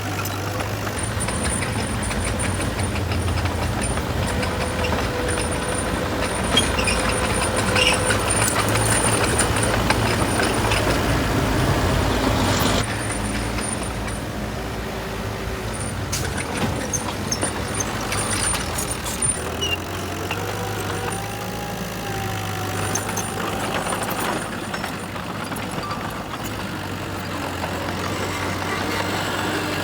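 Diesel engines of heavy earthmoving machinery running at a steady drone, louder for the first part and dropping off a little about halfway through.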